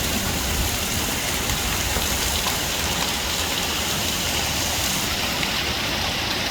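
Heavy rain pouring down steadily, drumming on surfaces, with runoff water rushing along the street.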